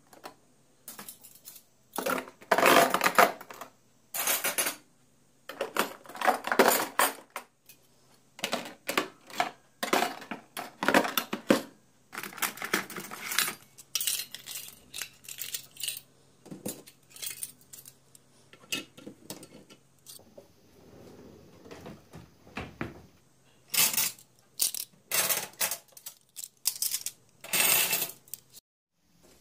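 Dishes and cutlery being handled, with irregular clinks, knocks and rattles coming in short runs.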